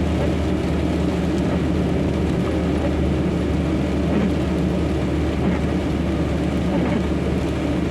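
Steady low drone of a semi-truck's engine and road noise, heard from inside the cab while driving slowly.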